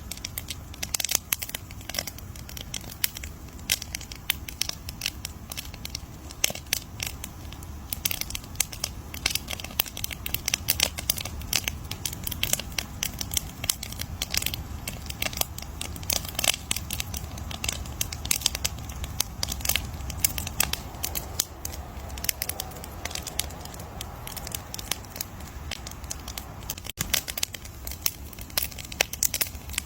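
Wood campfire crackling: dense, irregular snaps and pops over a low steady rumble, with the sound cutting out for an instant near the end.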